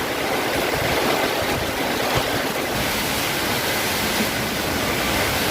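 Heavy rain driven by strong storm wind, a steady even rush of noise.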